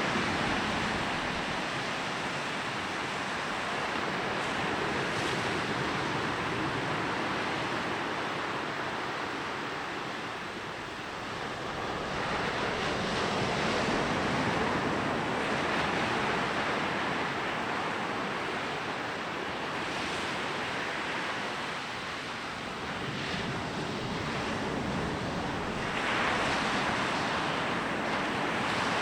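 Sea waves breaking and washing onto a beach: a continuous surf hiss that swells and eases every several seconds, dipping briefly and building again twice. The sea is fairly calm, without big breakers.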